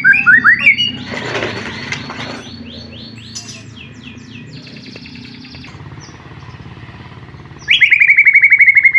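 White-rumped shama (murai batu) singing: loud whistled phrases at the start, quieter varied chattering and warbling in the middle, and a loud rapid trill of repeated notes, about ten a second, for the last second or so.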